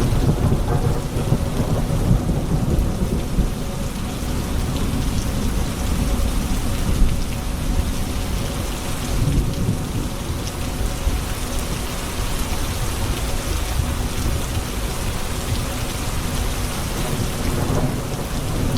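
Thunderstorm: steady rain falling, with deep rolling thunder rumbling underneath and one brief louder peak about seven seconds in.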